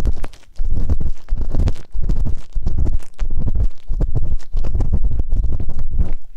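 Ear pick scratching and scraping in quick repeated strokes, about two a second, each with a deep rumble from rubbing right on the microphone.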